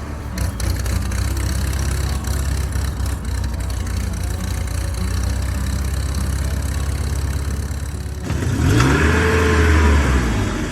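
A vehicle engine running with a steady low rumble. About eight seconds in it gets louder, with its pitch rising and falling as it revs.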